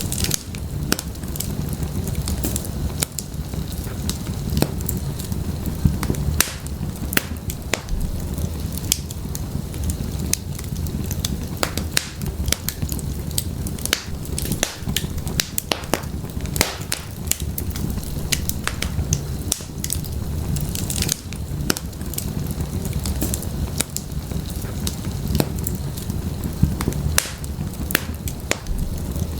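Wood fire burning in a fireplace, crackling and popping in irregular sharp snaps over a steady low rumble of the flames.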